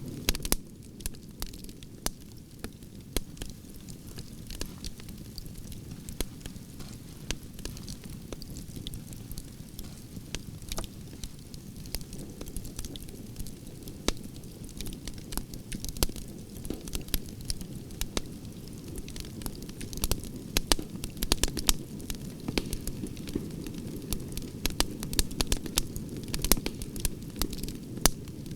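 Wood fire of burning branches crackling: a steady low rumble of the flames with many sharp, irregular pops and snaps, coming thicker toward the end.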